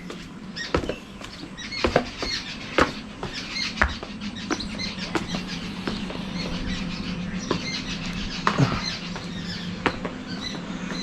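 Birds chirping in quick, high-pitched calls repeated many times, with scattered sharp clicks and a steady low hum underneath.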